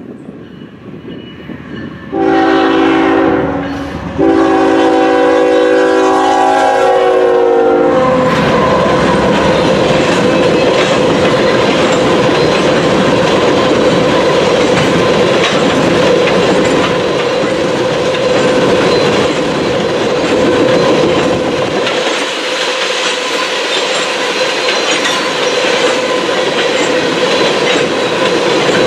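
Norfolk Southern freight locomotive's multi-chime air horn sounding a short blast and then a long one, its pitch dropping as the locomotive passes. A train of crude-oil tank cars then rolls by with steady clickety-clack of wheels over rail joints and a steady ringing tone over the roll.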